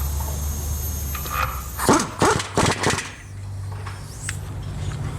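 Workshop sounds during a transmission install: a steady low hum with a thin high whine that stops a little under two seconds in, then a handful of sharp metallic clanks over about a second, followed by a steadier, slightly higher hum.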